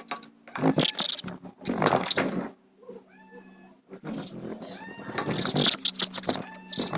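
Animal calls: a series of loud, harsh cries, some with short arching pitched notes, coming in bursts about every second.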